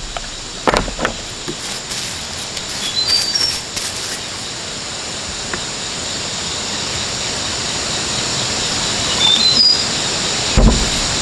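Steady high insect-like hiss with a few sharp knocks of parts being handled about a second in and again near the end, and two short runs of high bird-like chirps.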